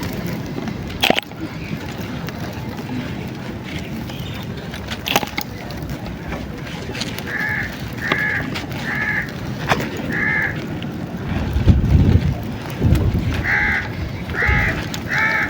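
A crow cawing in two short series, four caws and then three, each caw brief and of even length. A few sharp snaps come earlier, and a low rumble of wind on the microphone comes between the two series.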